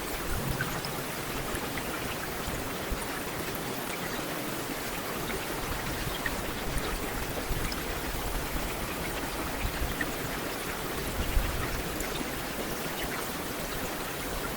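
Heavy rain falling steadily on a street, a dense even hiss with scattered individual drop ticks and a few low thuds, one a little louder about eleven seconds in.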